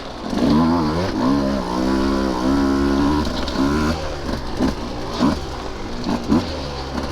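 Husqvarna TE150 two-stroke dirt bike engine revving up under throttle about half a second in and holding for a few seconds. It then gives a run of short throttle blips that rise and fall about twice a second.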